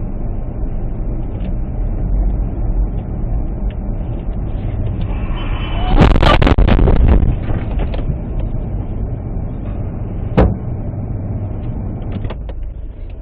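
Steady road and engine rumble inside a moving car, broken about six seconds in by a loud, clattering burst of knocks lasting about a second, like a collision, then a single sharp knock near the ten-second mark.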